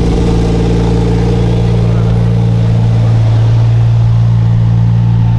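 Car engine idling steadily and loudly, its pitch unchanging.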